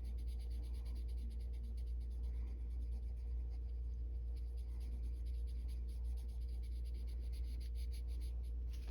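Colored pencil scratching on paper in rapid short strokes, feathering colour in, over a steady low hum.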